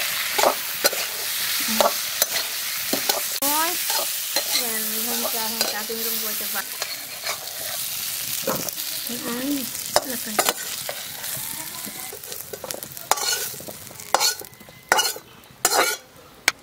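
Potato wedges sizzling in hot oil in a metal kadai while a flat metal spatula stirs them and scrapes the pan. In the last few seconds the sizzle dies down, leaving separate scrapes and knocks of the spatula as the potatoes are lifted out.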